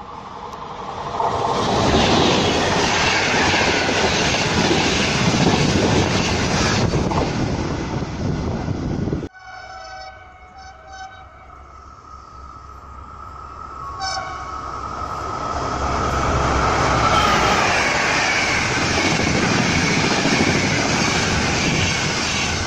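Two passes of electric trains through a station at speed: the rush and rumble of wheels on rails builds up, holds loud, and is cut off abruptly about nine seconds in. A quieter stretch follows with a horn-like tone sounding in short pulses, then an Intercity train of coaches passes loudly.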